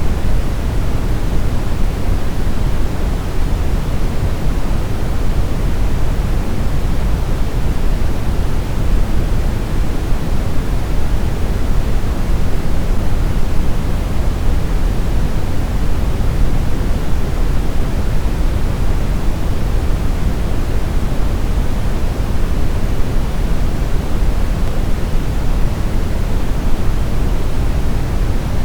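Steady brown noise: a smooth, unchanging rumble of random noise, strongest at the bass end and fading toward the treble.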